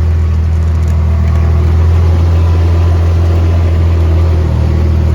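Vehicle engine running steadily at an even speed with a loud, low hum.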